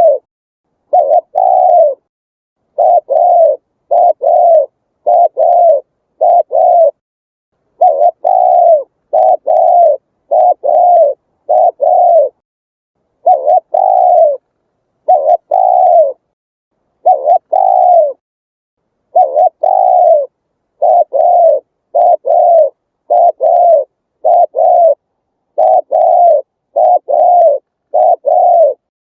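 Spotted dove cooing: a long run of short, low coos, each slightly falling in pitch, about one every second, with dead silence between them.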